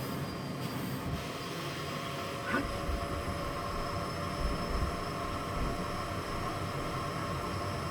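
Miele Blizzard CX1 bagless vacuum cleaner running steadily, a motor hum with a high whine over an even hiss of suction. A few dull bumps partway through as the floor head is worked.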